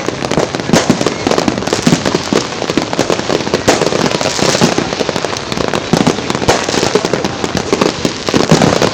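Fireworks going off in rapid, continuous succession: many overlapping bangs and crackles with no pause.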